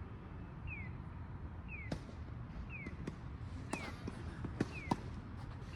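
Tennis balls being struck and bouncing: a string of sharp hits, irregularly spaced, starting about two seconds in. Over it, a short high chirp falling in pitch repeats about once a second.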